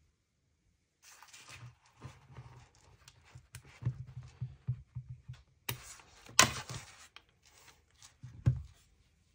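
Handling noises on a work surface: rustling with scattered clicks and a few sharp knocks. They start about a second in, and the loudest knocks come in the second half.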